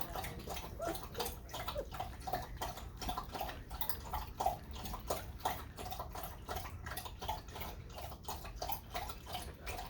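White German shepherd puppies mouthing and chewing toys: a run of small wet clicks with short faint squeaks.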